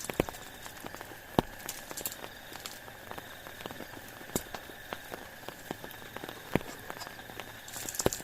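Rain falling steadily, with scattered louder drops tapping sharply every second or so, the loudest near the start and near the end.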